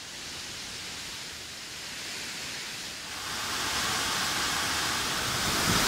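Waterfall rushing: a steady roar of falling water that fades in and grows louder in steps about three seconds in and near the end.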